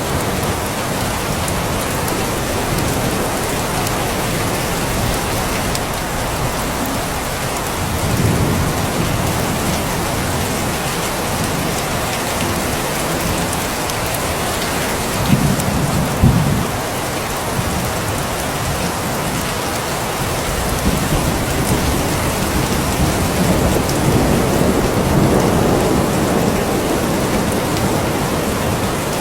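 Steady heavy rain falling, an even hiss, with a few low rumbles swelling under it; the strongest comes about halfway through.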